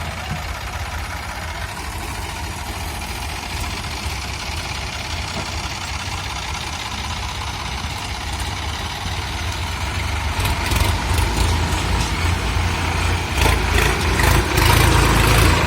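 Heavy diesel engine running steadily at low revs. About two-thirds of the way through it grows louder, with quick metallic rattles and clanks over it.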